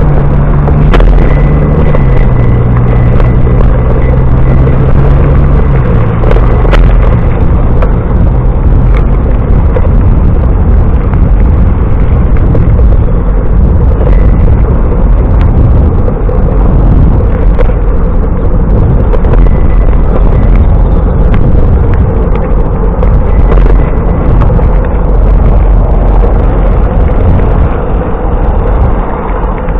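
Heavy wind buffeting on the microphone of a camera riding along on a moving bicycle: a loud, unbroken rumble. For the first several seconds an engine hum runs under it, stepping down in pitch.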